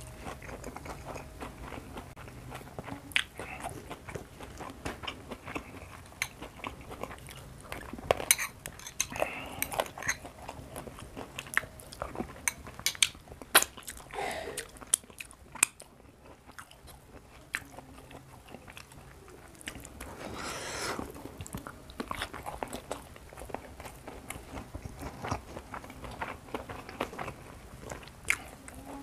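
Close-miked eating: a man chewing mouthfuls of fried carp and rice, with sharp crunches scattered irregularly throughout from the crisp-fried fish and its bones.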